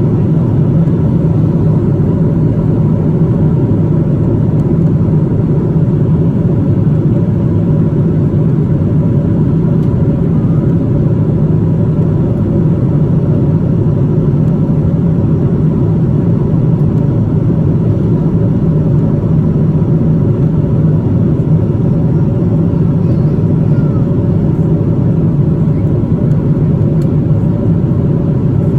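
Steady airliner cabin noise inside a Boeing 777-200: a constant low rush of engine and airflow noise with a faint steady hum, unchanging throughout.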